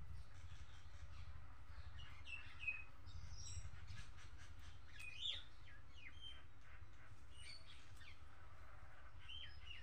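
Small birds chirping in short, high calls that rise and fall, heard several times, over a steady low rumble.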